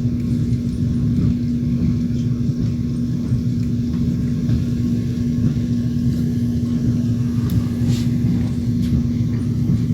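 Passenger train running along the track, heard from inside the carriage at the window: a steady low rumble of the wheels with a constant hum, and a few faint clicks late on.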